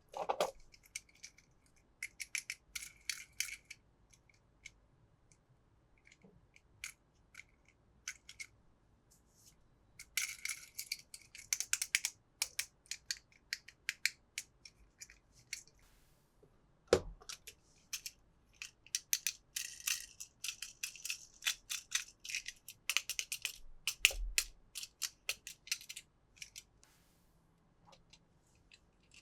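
Toy packaging being handled and opened: plastic crinkling and many small clicks and taps in uneven clusters, with a dull knock about 17 seconds in and another around 24 seconds.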